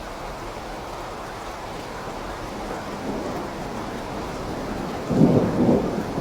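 Steady rain with a roll of thunder that builds gradually and peaks loudest about five seconds in.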